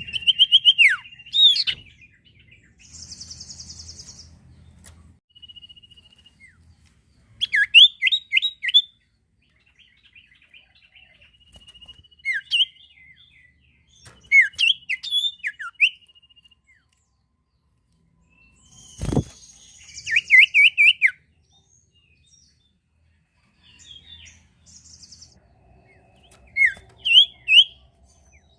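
A small songbird, the sirtu of Indonesian bird-keepers, singing short bursts of rapid sweeping chirps every few seconds, with thin held notes in between. A single sharp knock sounds about 19 seconds in.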